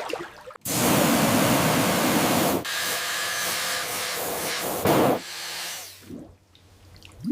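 A hissing spray that starts abruptly, shifts in tone at a sudden cut, then fades away after about five seconds.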